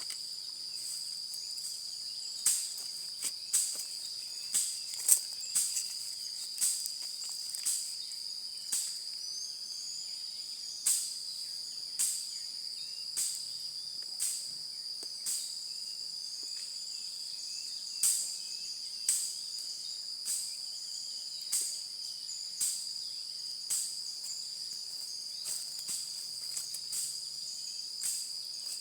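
A steady, high-pitched insect chorus of crickets, with sharp snaps or ticks coming roughly once a second and pausing now and then.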